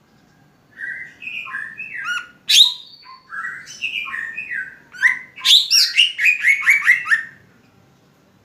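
Cucak ijo (green leafbird) singing one varied phrase of whistled and chattering notes, ending in a quick run of short descending notes at about four or five a second.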